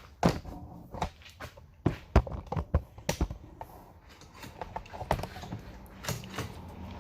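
Irregular knocks and clicks of handling, as objects are picked up and set down, with a faint steady hum from about five seconds in.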